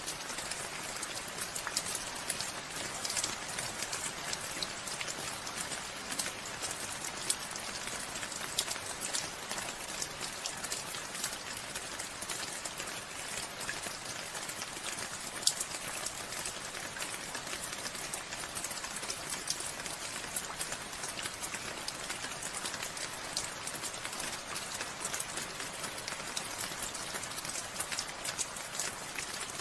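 Steady rain falling, a dense patter of drops with now and then a louder single drop.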